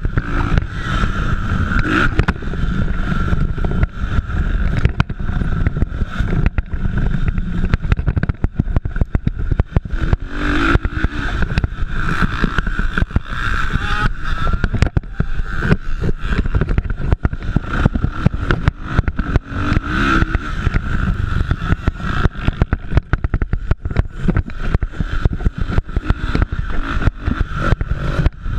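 Motocross dirt bikes racing, engines running and revving continuously, swelling and fading as they pass, over a dense rough crackle.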